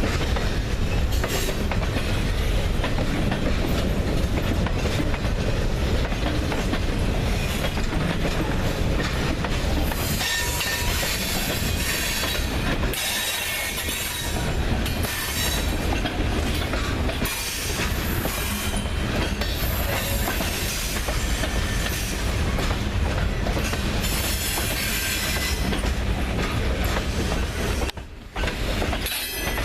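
Freight train cars rolling past, wheels clicking over the rail joints with a steady rumble, and at times a high wheel squeal. The sound drops briefly near the end.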